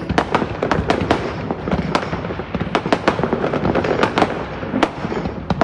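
New Year fireworks going off in a dense, irregular barrage of sharp bangs, several a second, over a continuous noise.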